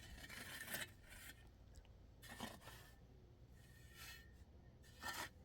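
Near silence with a few faint rustling and scraping handling sounds.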